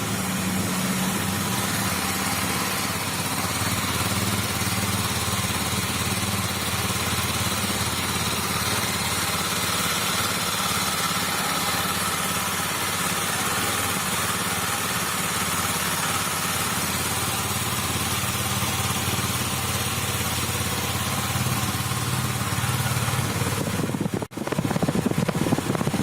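Husqvarna Svartpilen 250's single-cylinder four-stroke engine idling steadily through its exhaust. About 24 seconds in the sound drops out for a moment, then comes back louder.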